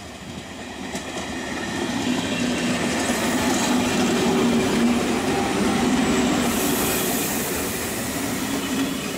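HŽ electric multiple unit passing close by: the rumble of its wheels on the rails swells to a peak midway and then fades as the last car goes by. A steady low hum runs under it, and a high hiss joins in the later part.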